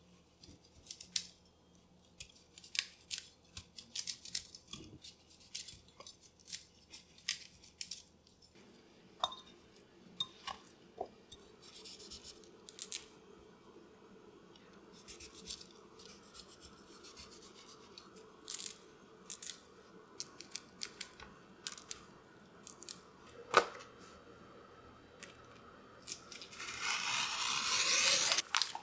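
Scattered clicks and taps of small objects and utensils being handled, then a loud crinkling of packaging from a few seconds before the end.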